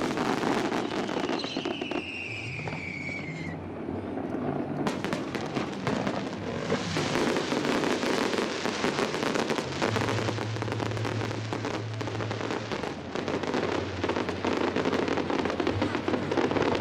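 Aerial fireworks display: dense, continuous crackling and popping from many shells bursting, with one falling whistle about a second and a half in.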